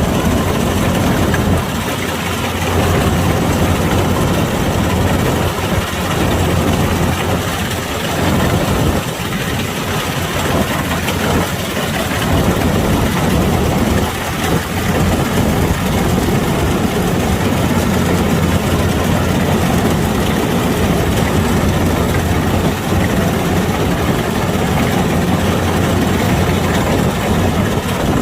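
Kubota DC-105X rice combine harvester running, a loud, steady engine and machinery drone with slight dips in level now and then.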